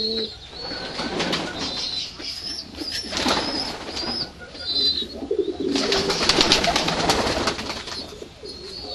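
Doves cooing in low, soft notes, mixed with repeated high, thin chirps and a stretch of scratchy rustling about six seconds in.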